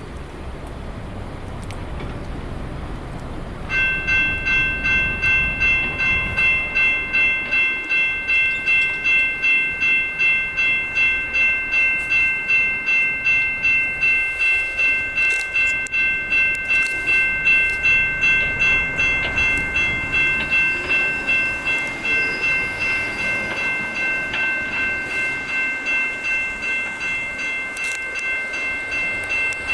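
Railroad crossing bells start ringing about four seconds in and keep up a steady, rapid dinging of about two strokes a second. Before the bells start, a low rumble builds.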